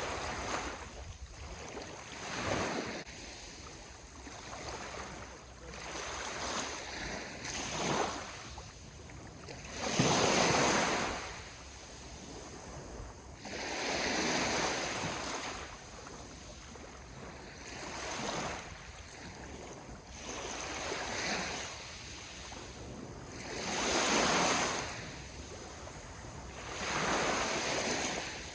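Ocean waves breaking and washing up on the shore, each surge swelling and fading every three to four seconds, the loudest about ten seconds in.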